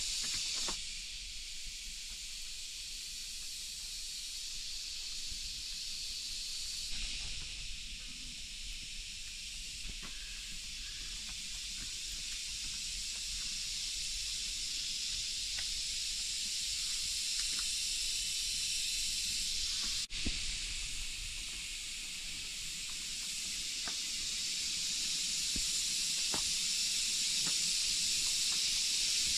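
Steady hiss of rain falling in the forest, with scattered faint taps.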